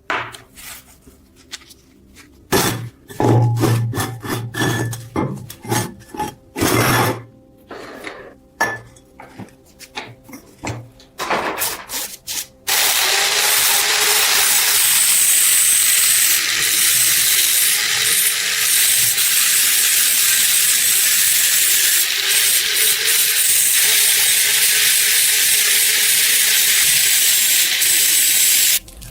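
Irregular hand rubbing strokes, typical of sanding or filing work, for about twelve seconds. Then a steady loud hiss starts abruptly and cuts off just before the end.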